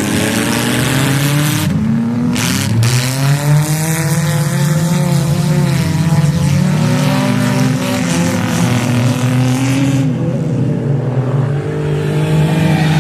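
Several demolition derby cars' engines revving hard at once, their pitch rising and falling as the cars accelerate and back off across the arena, over a rough rush of engine and tire noise.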